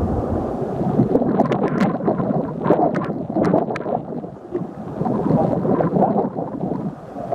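Water sloshing and gurgling around a canoe, with several brief splashy crackles between about one and four seconds in, and wind buffeting the microphone.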